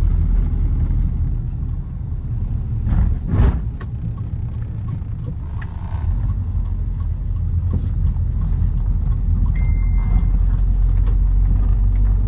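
Steady low rumble of a car moving along a road, with a louder knock about three seconds in and a short high beep about ten seconds in.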